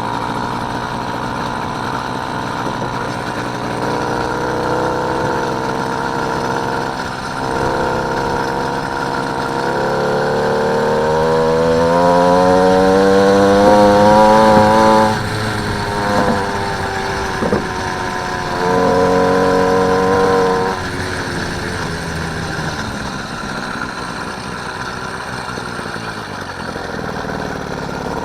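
Motorised bike's small engine running on the move. Its pitch climbs steadily from about ten seconds in, drops suddenly around fifteen seconds, rises again briefly near twenty seconds, then settles back to a steady lower drone.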